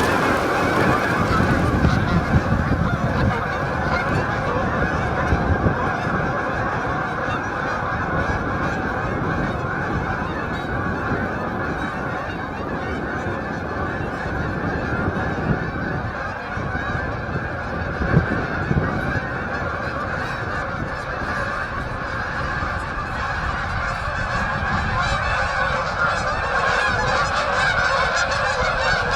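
A large flock of geese honking continuously, many calls overlapping at once.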